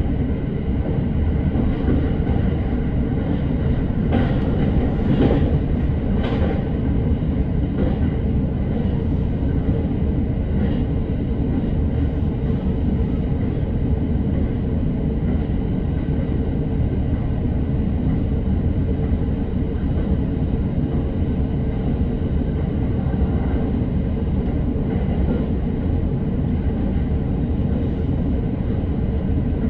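Electric commuter train running at speed, heard from inside the car: a steady rumble of wheels on rail with a faint steady hum, and three sharp clacks of wheels over rail joints about four to six and a half seconds in.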